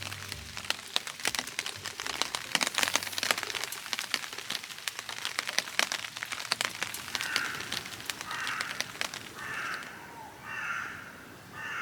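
Raindrops ticking rapidly on a tarp. From about seven seconds in, a bird gives harsh calls, about one a second.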